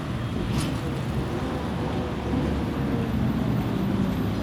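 Steady low rumble of an arriving train.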